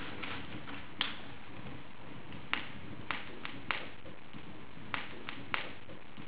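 Wood fire burning in an open fireplace: a steady hiss with sharp crackles and pops at irregular intervals, several close together in the middle and near the end.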